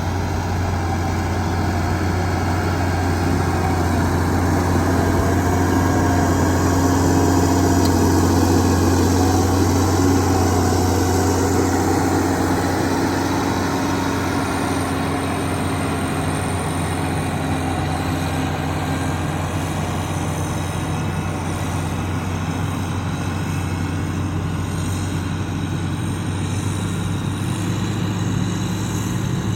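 Heavy diesel construction machinery running steadily with a deep engine hum, growing louder to a peak about eight seconds in and then easing off.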